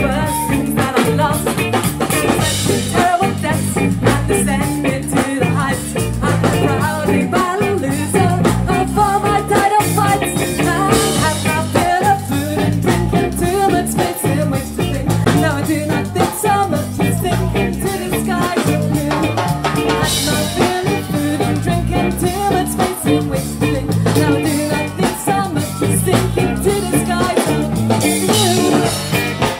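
Live ska-punk band playing loudly, with a steady bass line and drum kit keeping a regular beat.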